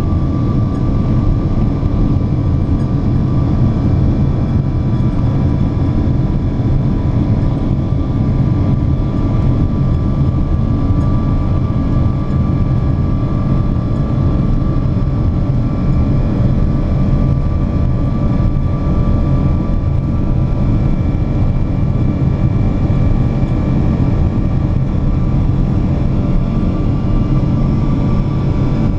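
Boeing 777-200 jet engines running as a steady, loud rumble with a faint steady whine above it, unchanged in level throughout.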